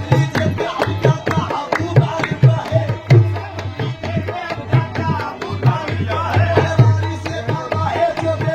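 Qawwali music without vocals: a dholak hand drum plays a busy rhythm of sharp strikes and deep booming bass strokes over sustained instrumental tones.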